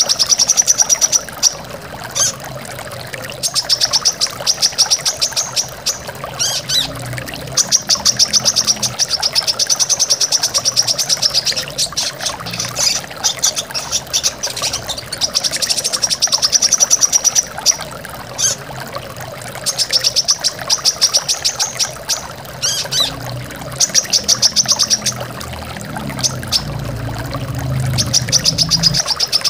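Brown-throated sunbird (kolibri kelapa) singing rapid, high ticking trills in repeated bursts of one to two seconds, over the steady rush of flowing water.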